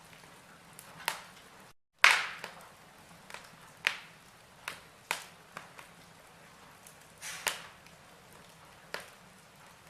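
Wood logs burning in a fireplace, crackling: irregular sharp pops, about eight of them, the loudest about two seconds in, over a faint steady hiss. The sound drops out to silence for a moment just before that loudest pop.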